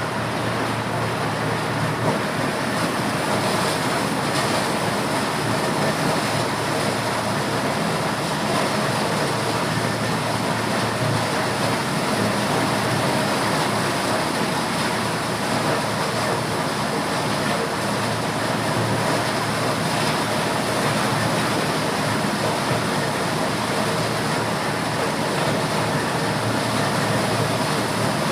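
Motorised corn sheller running steadily: a continuous loud mechanical noise with a low hum underneath, unbroken throughout.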